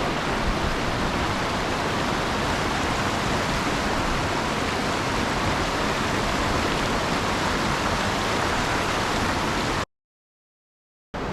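Mountain torrent rushing over rocks: a steady wash of water noise. It cuts to dead silence for about a second near the end.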